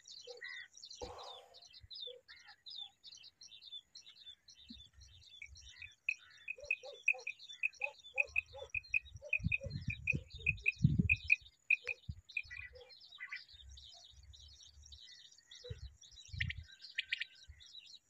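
Small birds chirping and calling throughout, with a fast, even run of repeated high notes, about four a second, in the middle. A few low thumps and rumbles come through around the middle and are the loudest sounds.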